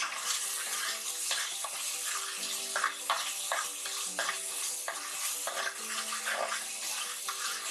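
Green masala paste sizzling in oil in a copper pot, stirred with a metal spatula that scrapes and knocks against the pot about twice a second. The masala is being fried until the oil separates.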